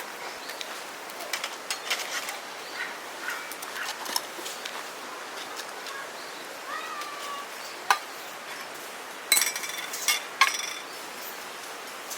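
Scattered clicks and clinks over a steady outdoor hiss, with a short chirp-like call about seven seconds in and a few sharper knocks near the end.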